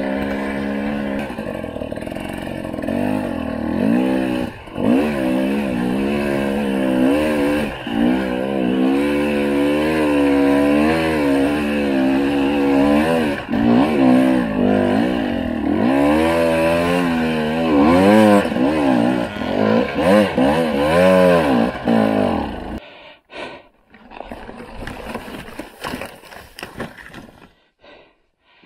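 Husqvarna TE300i two-stroke enduro engine revving up and down again and again under load on a dirt trail. About 23 seconds in it cuts out suddenly, and scattered scuffing and clattering follow: the bike has gone down and stalled on the hillside.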